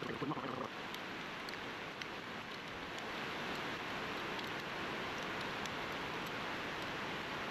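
Steady hiss of noise with a few faint ticks.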